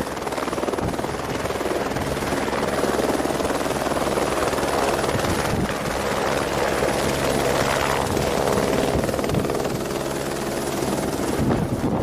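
Helicopter in flight: steady loud drone of engine and rotor with a fast pulsing beat.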